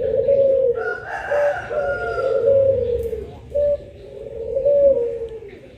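Puter pelung doves cooing: long, drawn-out coos in a series of low notes that step up and then slide down in pitch, one bird answering another. A higher, rougher bird call overlaps them about a second in.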